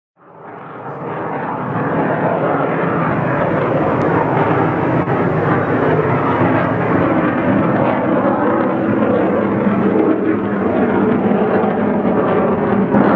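MiG fighter jet's engine noise as it flies past, loud and steady after swelling up over the first two seconds.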